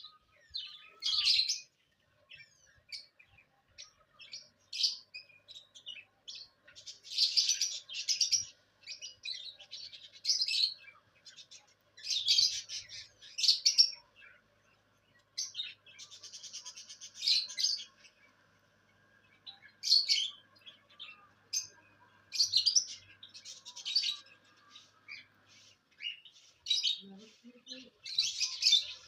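Small pet cage birds chirping and chattering in short high-pitched bursts every second or two, with a rapid buzzy trill about halfway through.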